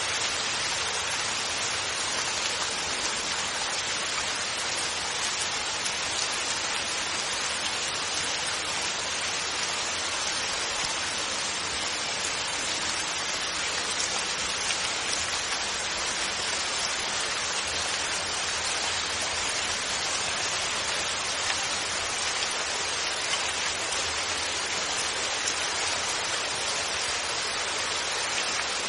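Steady rain falling and pattering on surfaces, an even hiss of many fine drops with no thunder.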